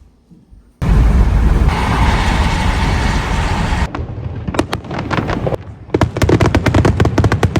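Fireworks going off: a loud hiss for about three seconds, then a quick run of sharp crackling pops, several a second.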